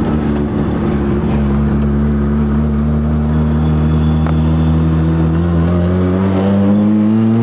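Bridgeported Wankel rotary engine of a turbocharged Mazda RX-7 running steadily, its revs climbing gently in the last couple of seconds.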